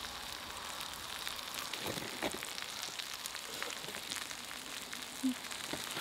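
Beef large intestines (daechang) sizzling steadily on a cauldron-lid griddle, with a few faint taps of utensils.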